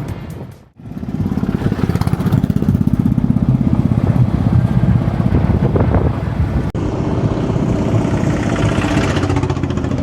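Motorcycle engine running with a fast, even pulse. The sound drops out suddenly for a moment under a second in.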